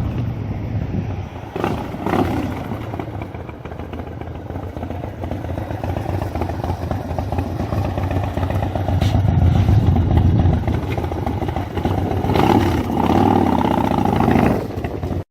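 2006 Big Dog K9's 117 ci S&S V-twin running through its upgraded aftermarket exhaust, with a deep pulsing note. It is revved a few times near the end before the sound cuts off suddenly.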